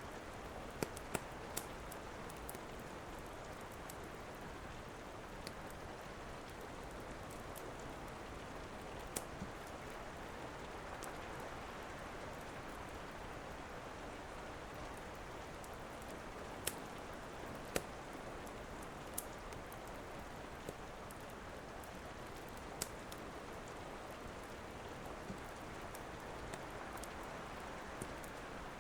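Steady rain with scattered sharp crackles and pops from a wood fire, a dozen or so at irregular intervals.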